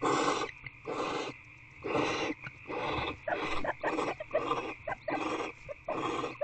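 Barn owls in a nest box hissing: a run of short, rasping hisses repeated a little under twice a second, with a few faint clicks between them.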